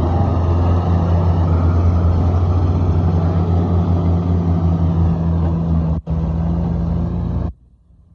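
Mahindra tractor's diesel engine running steadily and hard, pulling a heavily loaded sugarcane trolley. The sound drops out for an instant about six seconds in and cuts off suddenly near the end.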